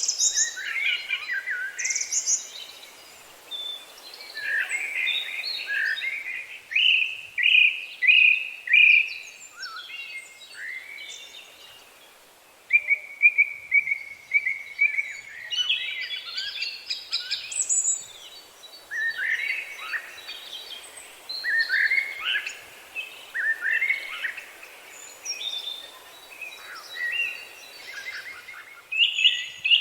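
Songbirds singing and chirping, several overlapping phrases of quick high notes, some in fast repeated series, over a light outdoor background hiss.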